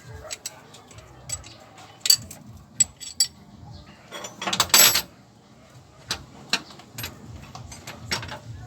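Metal tools and engine parts clinking and tapping in short separate knocks, with a rapid run of clicks lasting about a second around the middle.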